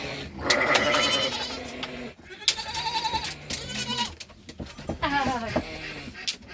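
Goats bleating, several quavering calls one after another.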